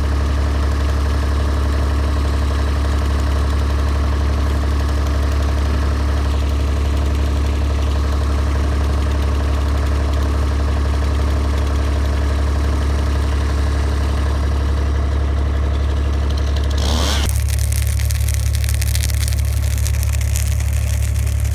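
A vehicle engine running steadily with a strong low hum. About seventeen seconds in the sound changes: the upper tones drop away and a hiss comes in.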